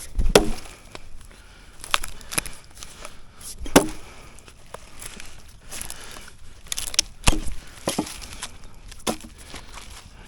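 Firewood being chopped or split with an axe: about eight sharp wooden knocks at irregular intervals, with quieter handling noise between them.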